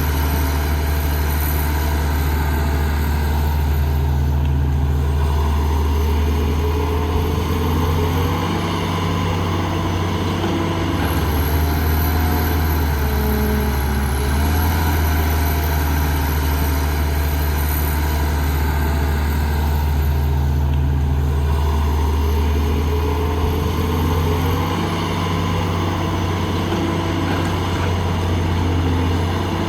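Heavy construction machine's diesel engine running steadily, its pitch and load shifting every few seconds as it works.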